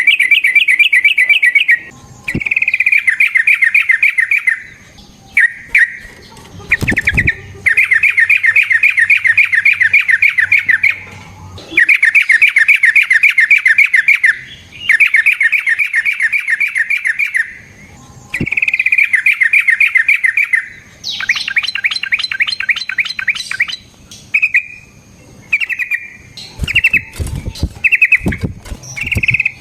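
Yellow-vented bulbul (trucukan) singing a series of fast, rattling trills, each phrase lasting a second to a few seconds with short breaks. One phrase about three-quarters through goes higher, and short clipped notes follow near the end.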